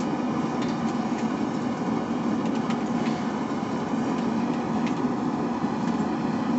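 Forge running with a steady, even noise and a few faint ticks.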